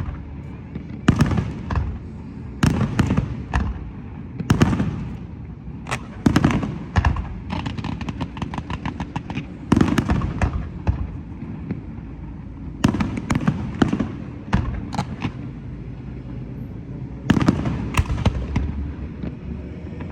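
Aerial fireworks display: shells and salutes bursting in irregular volleys, with runs of quick crackling reports and booming that echoes over the water between bursts.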